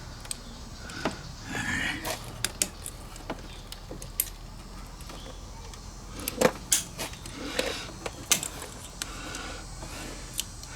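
Scattered small metallic clicks and clinks of hand work on a scooter's carburetor and its cable fittings, with a louder clatter about six and a half seconds in.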